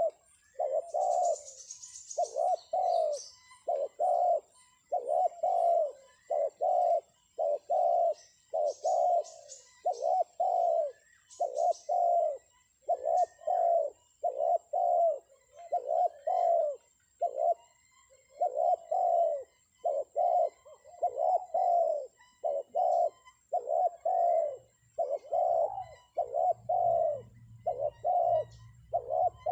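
Spotted dove cooing as a trapping lure: short coo notes repeated over and over, about one a second, some in quick pairs. Thin high chirps from a small bird come in near the start.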